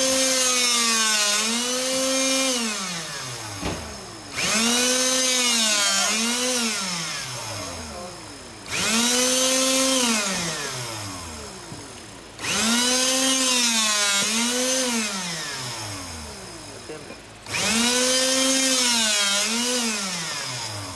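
Electric motor of a handheld hydraulic rebar cutter, the RA25, running its pump through five cutting cycles. Each run starts suddenly with a steady whine, dips in pitch under load partway through, and then falls away as the motor spins down.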